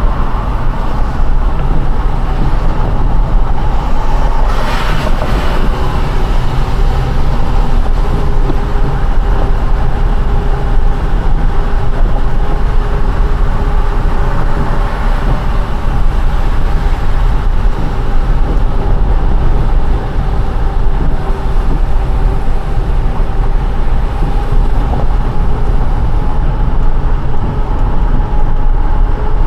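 Car driving on a rain-wet road: steady loud road and tyre noise over a deep rumble, with a brief hiss about five seconds in.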